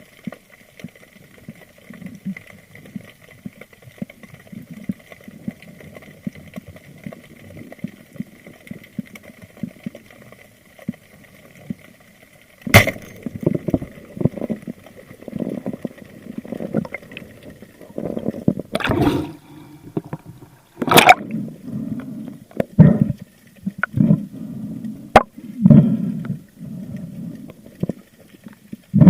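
Muffled underwater sound picked up by a camera in its housing while spearfishing: low water rumble and sloshing with a faint steady whine. About halfway through it becomes louder and choppier, with several sharp clicks and knocks.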